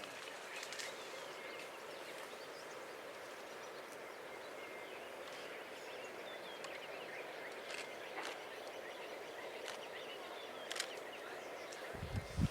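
Steady outdoor bush ambience, an even hiss of background noise with faint bird chirps and a few soft clicks. Low rumbling thumps come in just before the end.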